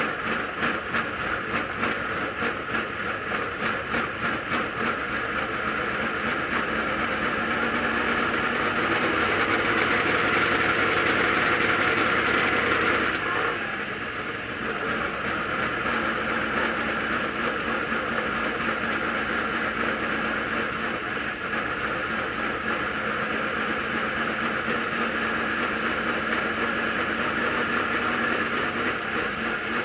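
Dirt late model race car's V8 engine running with an uneven, pulsing beat at first. It then builds in revs and level, drops off suddenly about thirteen seconds in, and carries on steadily.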